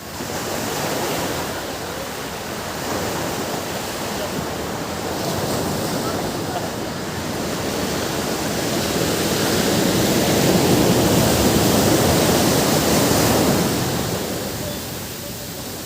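Ocean surf on a beach: waves washing in with a steady rush that builds to its loudest about two-thirds of the way through, then falls back.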